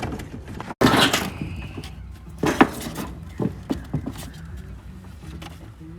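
Objects being handled and set down: a loud clattering knock about a second in, then a series of sharper knocks and rattles over a low steady hum.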